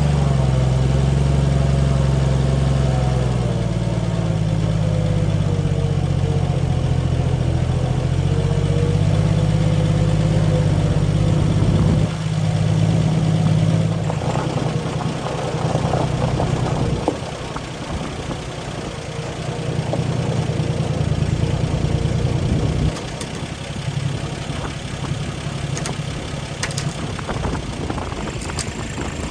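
Engine of an old haystacker running, its speed shifting up and down several times and settling lower twice. There are a few sharp knocks near the end.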